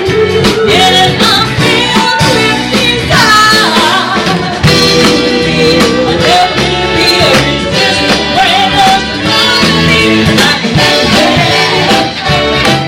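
Live band playing an upbeat rock and roll song with singing and a steady beat.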